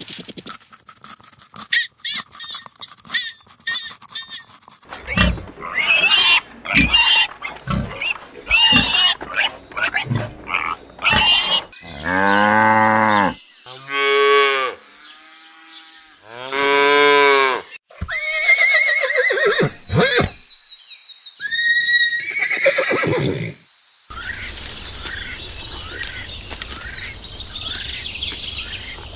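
A sequence of recorded farm animal calls: short rapid cries and clicks, then two long, drawn-out pitched calls of about a second and a half each, followed by shorter calls that slide in pitch.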